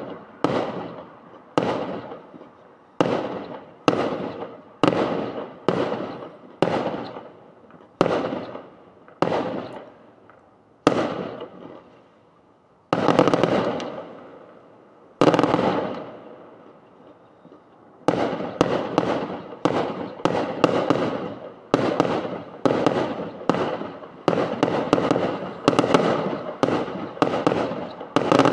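Fireworks going off in a string of sharp bangs, about one a second, each dying away over roughly a second. After two short lulls around the middle, the bangs come faster and overlap toward the end.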